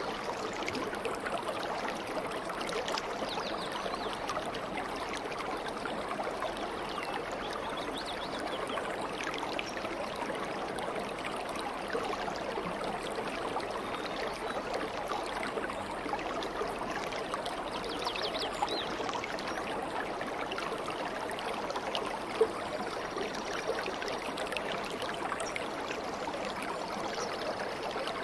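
Steady babbling of a flowing stream, with faint, brief bird chirps here and there and a single sharp tick about two-thirds of the way through.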